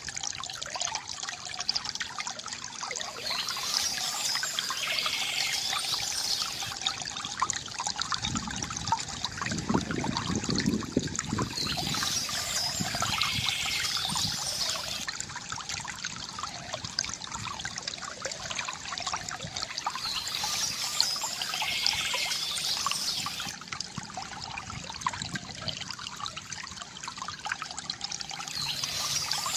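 Water trickling and gurgling steadily from a bamboo fountain, with a fuller pouring swell about a third of the way in.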